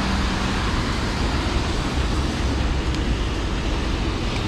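Steady city road traffic noise, a constant rumble and hiss of passing vehicles on a wet street.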